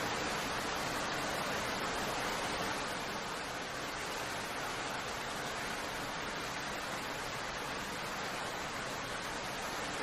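Steady rain falling, an even hiss that drops slightly in level about three seconds in.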